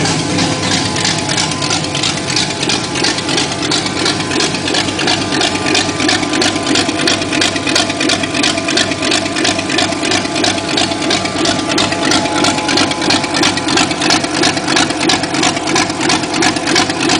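1983 Ford Mustang GT's 5.0 V8 idling with no exhaust fitted, an even pulsing lope that is the thump of its aftermarket Lunati camshaft. The carburetor is still slightly out of adjustment.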